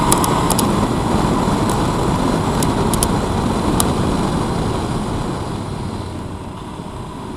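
Motorcycle on the move: a steady rush of engine and wind noise that eases off after about five seconds, with a few sharp ticks in the first few seconds.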